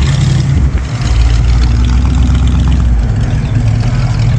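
Hot rod engine idling with a loud, low rumble that drops deeper for about two seconds, starting about a second in.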